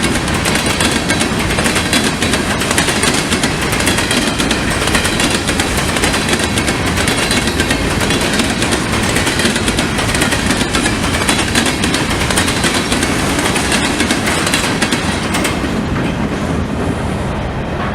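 Grain train of freight cars rolling past at speed, with a steady loud rumble and rapid clickety-clack of wheels over the rail joints. The sound thins and drops off near the end.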